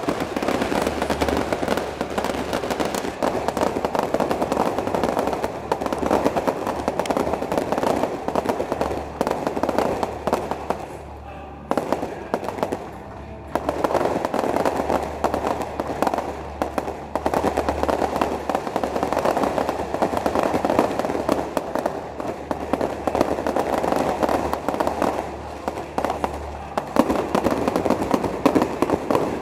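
Aerial fireworks display: shells bursting and crackling in a rapid, unbroken barrage, with a short thinner lull about halfway through before the barrage picks up again.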